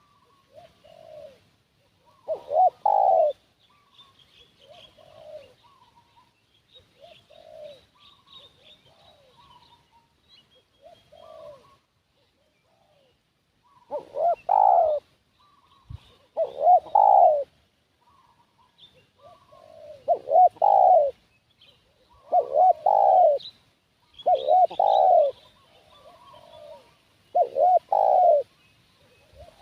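Spotted doves (tekukur) cooing: loud, close coo phrases every couple of seconds, coming more often in the second half, with fainter coos in between, as with a lure bird and doves answering it. Faint high chirps sound in the background.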